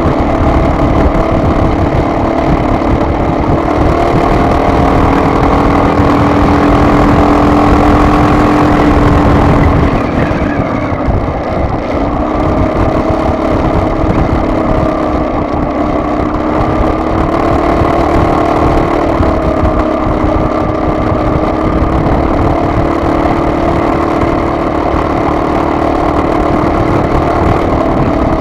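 Vehicle engine running under way, with heavy low road and wind rumble. Its pitch climbs gently for about ten seconds, drops suddenly, then rises and holds steady again, as with a gear change or easing off.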